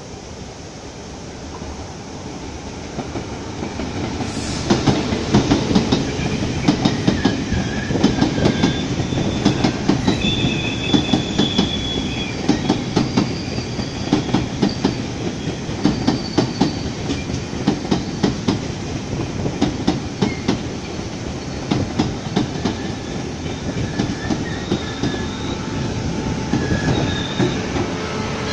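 Taiwan Railway E1000-series push-pull Tze-Chiang express passing close by. A rumble grows over the first few seconds, then a dense run of clickety-clack from the wheels over the rail joints, with thin, high wheel squeals coming and going.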